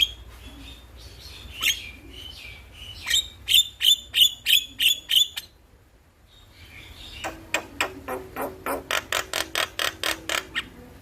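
Jalak kebo (black-winged myna) calling with sharp, loud repeated notes. A run of about eight notes comes at roughly two a second, then a short pause, then a faster rattling series of about twenty notes.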